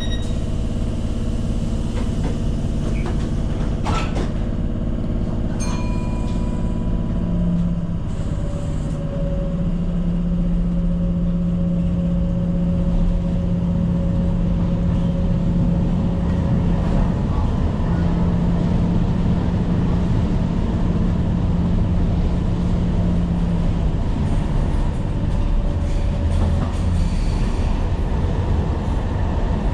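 Tyne & Wear Metro train running along the line, heard from the cab: a steady rumble of wheels on rail with a constant motor hum and whine, and a sharp click about four seconds in.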